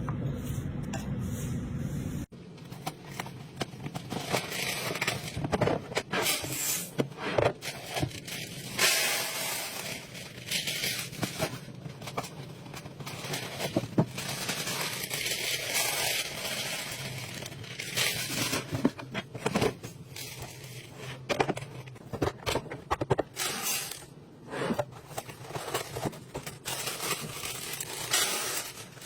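Food containers and packaging being handled and set down while a fridge is restocked: a busy run of clicks and knocks mixed with rustling and scraping. For the first two seconds there is a steady hum with a high whine, which cuts off abruptly.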